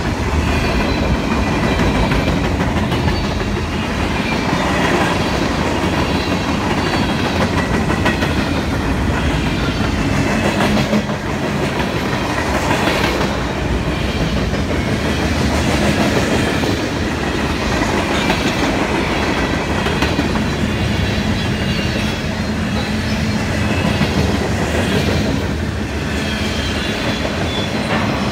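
Freight cars of a long CSX mixed freight train rolling past close by: the steady running noise of steel wheels on rail, with the clickety-clack of the wheels crossing rail joints.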